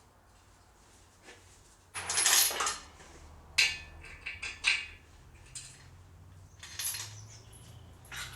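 Metal clinking and clattering, like tools or small metal parts being handled and set down: a rattle about two seconds in, a few sharp clinks, and another rattle near the end.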